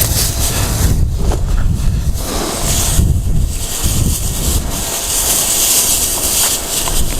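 Wind buffeting the microphone: a loud, uneven low rumble with a hiss over it.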